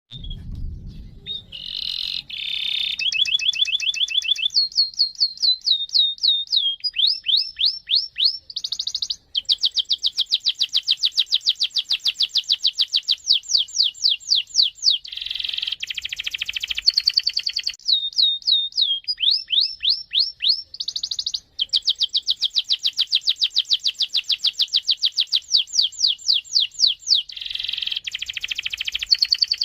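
Domestic canary singing a long, continuous song of rapid rolling trills, runs of quick down-slurred notes and harsh buzzy phrases, pausing only briefly twice. This is the kind of long-rolling song played as a lure to set other canaries singing.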